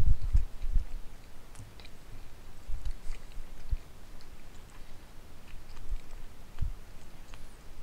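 Close-miked chewing of pot roast with carrots and potatoes, mouth closed: soft, irregular mouth sounds with scattered small clicks and a few low thuds, the heaviest right at the start.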